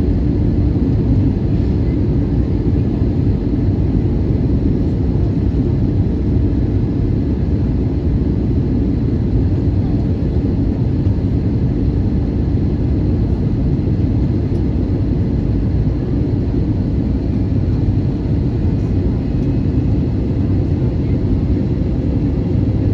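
Steady low rumble of cabin noise inside an Airbus A320neo airliner in flight: engine and airflow noise heard from a window seat, even throughout with no distinct events.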